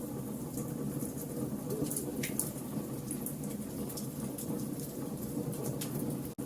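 Log fire burning in a fireplace: a steady low rush with scattered sharp crackles and pops. The sound cuts out for an instant near the end.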